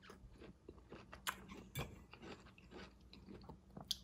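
Chewing of sautéed zucchini, yellow squash and red onion: faint wet mouth clicks and small crunches, a few of them louder.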